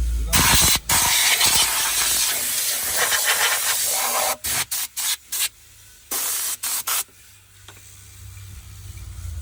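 Pressurized cleaning spray gun hissing: one long blast of about four seconds, then several short bursts, stopping about seven seconds in.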